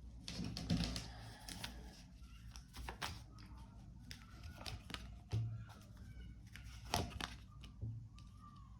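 Tarot cards being shuffled and handled: a run of papery flicks, slaps and clicks, loudest about a second in and with sharp snaps near five and a half and seven seconds.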